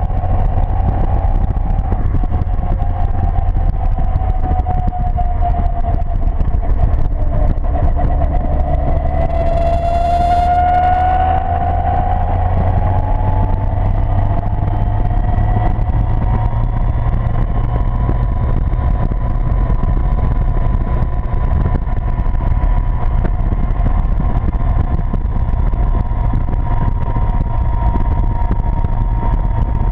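Seven sports car's engine running hard on a racing circuit, heard from its open cockpit, with steady low road and wind noise. The engine note falls and then climbs sharply about ten seconds in, then holds steady.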